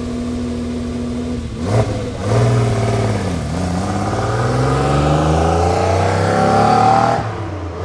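Lamborghini Countach's V12 idling steadily, then blipped and accelerating hard away. Its pitch climbs, dips once at a gear change about three and a half seconds in, climbs again and falls off near the end.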